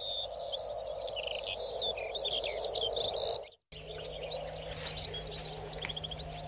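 Birds chirping and calling: many short, high chirps and trills over a steady background hiss. The sound cuts out briefly about three and a half seconds in, then fainter chirps return over a low steady hum.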